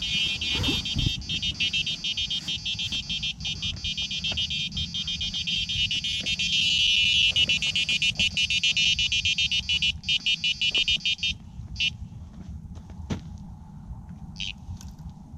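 Sonik SKS2 carp bite alarm sounding a rapid, unbroken string of high electronic beeps as line is pulled off the rod. This is a full run from a taking carp. The beeping cuts off about eleven seconds in, and a couple of single beeps follow.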